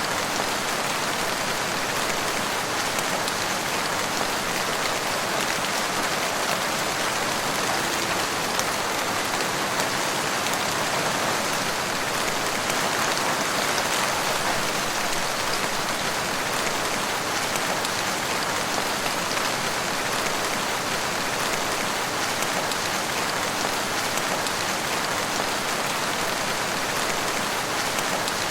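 Steady rain falling in a forest, an even hiss with fine patter of drops.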